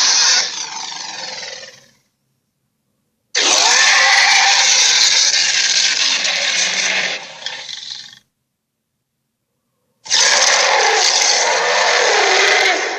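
Giant ape roar sound effects, Kong-style: a roar trailing off at the start, then two long harsh roars with near silence between them. The first starts abruptly about three seconds in and lasts some four seconds; the second starts about ten seconds in.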